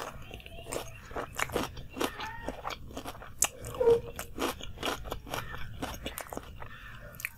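Close-up crunchy chewing of a mouthful of food, with irregular crisp crunches and mouth sounds and one sharper, louder sound about four seconds in.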